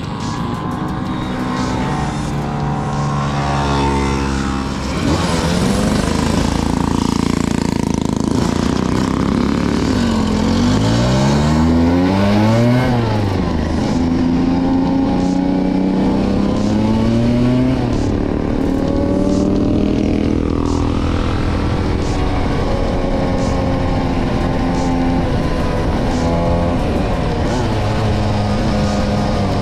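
Vespa V50 scooter's small two-stroke engine running under way, its note rising and falling several times as the revs climb and drop.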